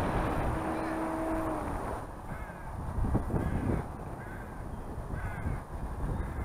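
A bird calling about five times in short, arched calls, starting about two seconds in, over low wind rumble on the microphone. A brief steady hum sounds in the first two seconds.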